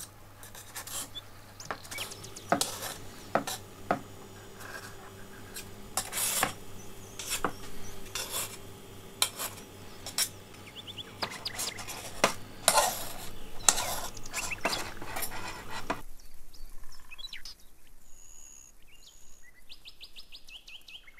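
A thin metal blade scraping around the inside wall and centre tube of an aluminium chiffon cake tube pan to free the baked cake, in irregular strokes with light metal clinks. The scraping stops about 16 seconds in, leaving only a few faint short chirping tones.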